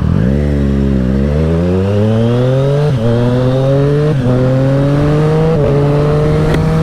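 A 2020 Triumph Street Triple RS's 765 cc inline three-cylinder engine, through a LeoVince LV One EVO carbon slip-on exhaust, accelerating through the gears. The engine note climbs and dips briefly at three upshifts, about three, four and five and a half seconds in.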